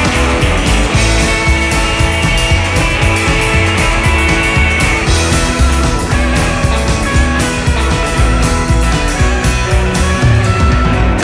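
Rockabilly band playing live: an instrumental break with electric guitar over a steady bass and drum beat.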